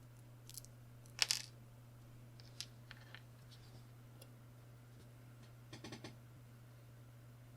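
A few small, sharp clicks and taps of small keyboard parts being handled, with a cluster of clicks about a second in and another near the end, over a steady low hum.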